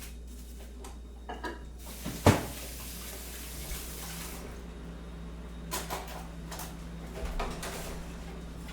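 Kitchen sounds: a sharp knock about two seconds in, with a tap running for a couple of seconds around it, then a few light clinks of crockery and a low steady hum.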